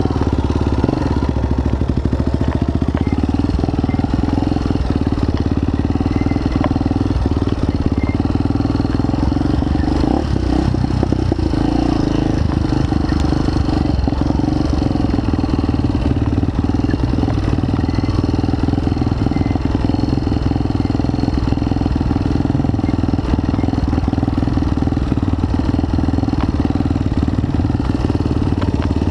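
Motorcycle engine running steadily, with no pauses or changes in level.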